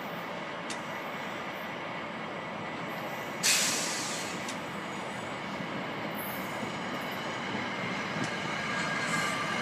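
NJ Transit passenger train approaching on the yard tracks, its rolling noise slowly growing louder, with thin wheel squeal coming in near the end. A sudden sharp hiss of released air about three and a half seconds in.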